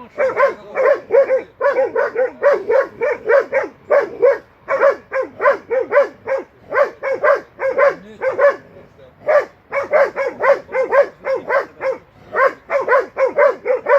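Young hunting dog barking fast and without let-up, about three barks a second, with two short breaks: baying at a wild boar held in a training pen.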